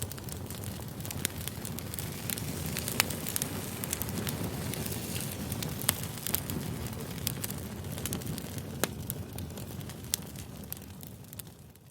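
Campfire crackling, with a steady low rumble of flames and scattered sharp pops; it fades down near the end.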